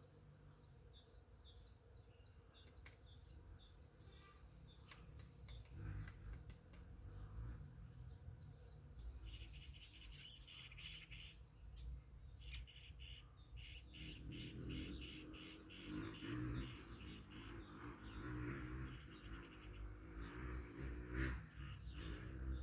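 Woodpecker tapping on a tree trunk: scattered series of short, sharp knocks, faint against small birds chirping. A low rumble builds in the second half.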